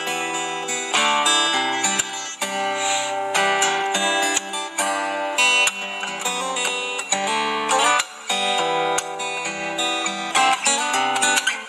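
Solo fingerstyle acoustic guitar playing a melody over its own bass notes, plucked notes changing quickly.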